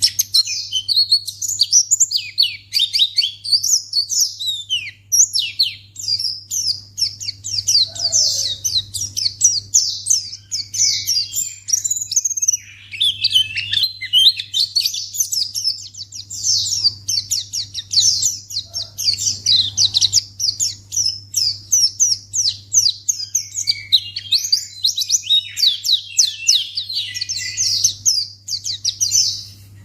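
White-eye (pleci) singing a fast, unbroken run of high twittering chirps and trills, the kind of song played to lure other pleci into answering. A steady low hum runs underneath.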